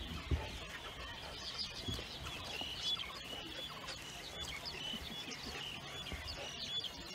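Birds calling with many short, high chirps, over a low outdoor background, with one low thump about a third of a second in.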